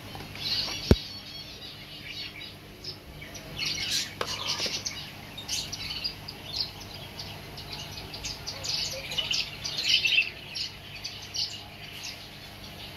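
Many small birds chirping, short high chirps coming thick and fast over a steady low hum. A single sharp click about a second in.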